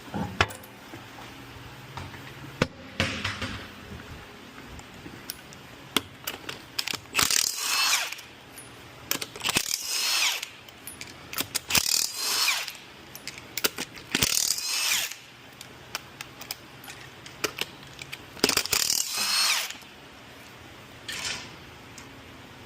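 A power tool run in about six short bursts of roughly a second each, with a wavering whine, among sharp clicks and clinks of tools being handled.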